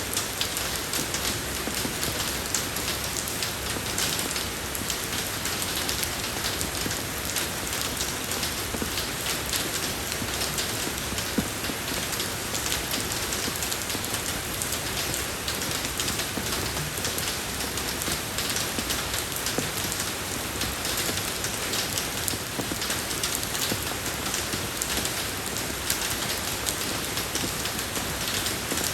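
Steady rain falling on a road surface, an even hiss dotted with many small drop ticks, unchanging throughout.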